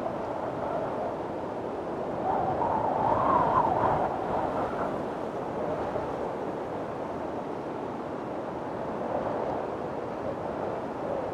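Windstorm: strong wind blowing steadily. A gust swells about two seconds in, with a wavering whistle, and dies down again.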